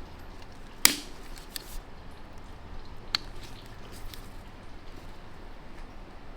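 Steel parts of an NV5600 manual transmission being handled during teardown: a sharp metallic clank about a second in, then lighter clinks, one ringing briefly around three seconds in.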